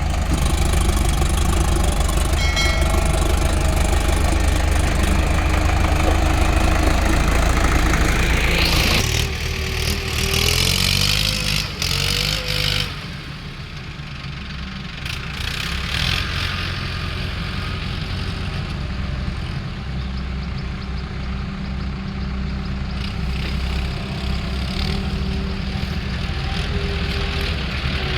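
Diesel engines of an excavator and tractors running steadily under work. A rising whine comes about a third of the way in, and the overall sound drops a little quieter about halfway through.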